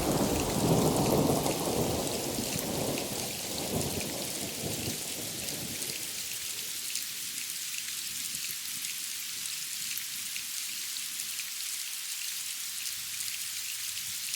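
Heavy rain falling, with a roll of thunder that fades away over the first five seconds or so; after that, only the steady hiss of rain pattering on surfaces.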